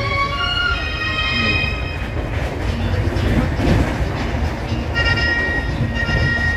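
Indian Railways passenger coach running on the rails: a steady low rumble and noise. High, held musical tones sound over it for the first two seconds or so and again from about five seconds in.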